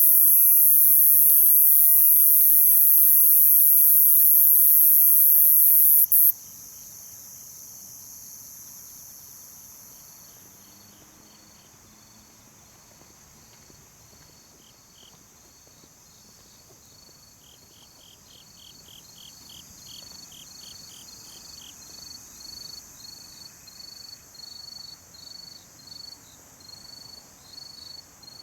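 Night insects: a loud, steady, very high-pitched insect drone cuts off abruptly about six seconds in. Quieter cricket chirping is left, at about two chirps a second and growing louder toward the end, with a short burst of rapid trilling midway.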